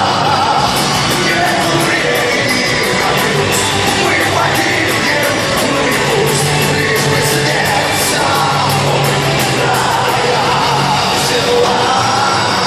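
Heavy metal band playing live: distorted guitars, drums with steady cymbal hits, and a sung vocal line.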